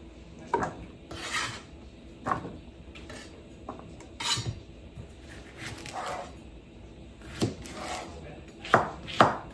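Kitchen prep on a cutting board: irregular knife knocks with short scrapes and utensil clinks, turning into a quicker run of chops near the end.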